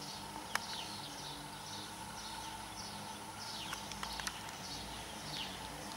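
A small bird chirping over and over, short notes that fall in pitch, about two a second, over faint outdoor background noise and a steady hum.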